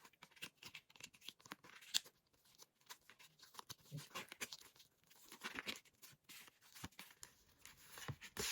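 Faint rustling and handling of paper cards, a string of short scratches and clicks.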